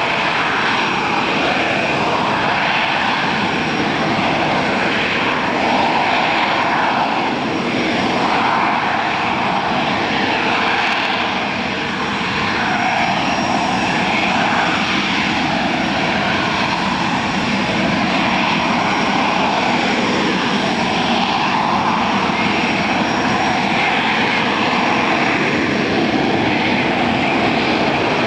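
AV-8B Harrier's Pegasus turbofan jet engine running loud and steady, a dense jet noise whose tone wavers slowly up and down without fading away.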